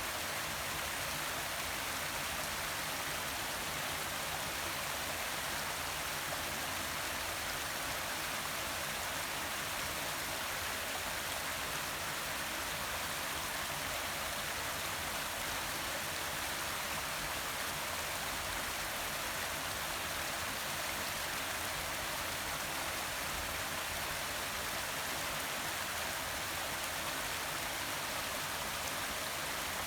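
Forest waterfall: a steady, even rush of falling water with no breaks or separate events.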